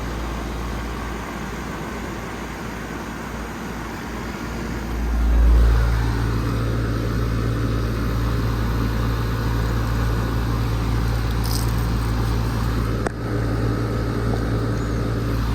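2017 Carrier 4-ton outdoor air conditioner running: the condenser fan and the LG scroll compressor make a steady low hum, which gets louder about five seconds in and then holds.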